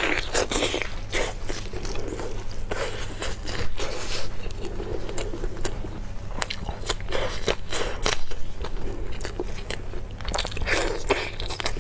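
Close-miked eating: a person biting into and chewing crunchy food, with many sharp, irregular crunches and crackles.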